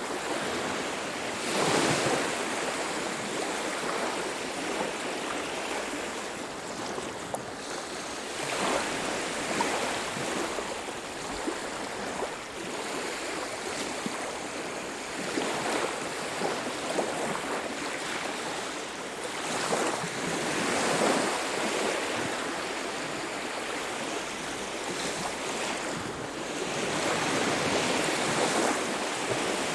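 Ocean surf on a beach: waves break every several seconds, each one swelling into a louder rush and easing back into a steady wash.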